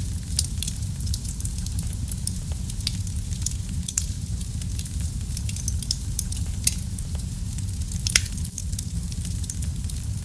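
Wood fire burning in a fireplace: a steady low rumble of flame with frequent sharp crackles and pops, a few louder pops standing out.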